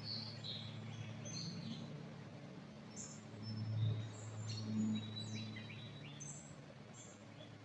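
Several small songbirds chirping and trilling in a pine forest, short high calls overlapping throughout. Underneath runs a steady low hum that swells briefly twice in the middle.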